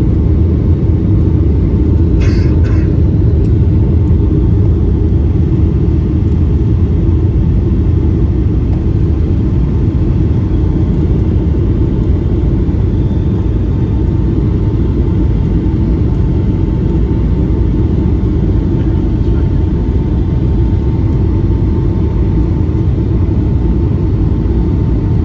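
Steady low cabin rumble of a Boeing 757-200 in flight on approach, the engines and airflow heard from a window seat, with a faint steady tone riding over it. A brief rattle about two seconds in.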